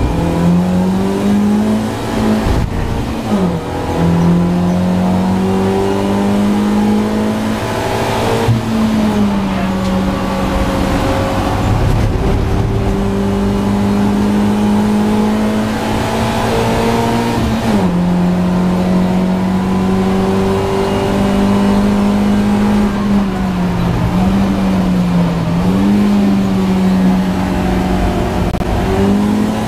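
BMW Compact race car's engine heard from inside the cabin, running hard at high revs. Its pitch drops briefly and climbs back several times.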